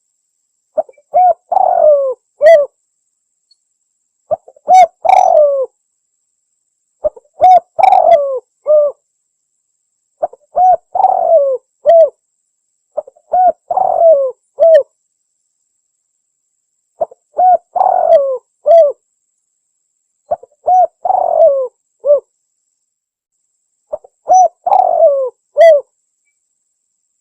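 Spotted dove (tekukur) cooing: the same three-part phrase of a short note and two longer coos, repeated eight times about every three seconds.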